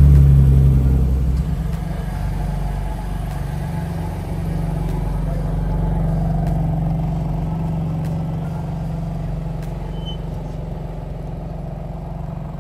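Car engine running with a steady low note. It is loudest at first, drops about a second and a half in, swells again around six seconds and then slowly fades.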